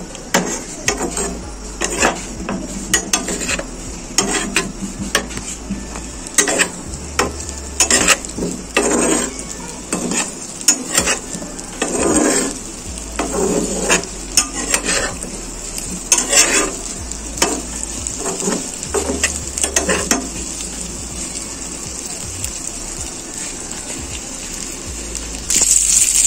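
Boiled whole potatoes frying in hot oil in a frying pan, with a steady sizzle. Over the first twenty seconds or so a wooden spatula repeatedly scrapes and knocks against the pan as the potatoes are stirred. After that the sizzle carries on alone and grows louder near the end.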